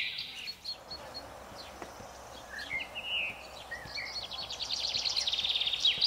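Songbirds singing: rapid, buzzy trills of quickly repeated high notes, strongest in the last two seconds, with a few short chirps in the middle, over a steady background hiss.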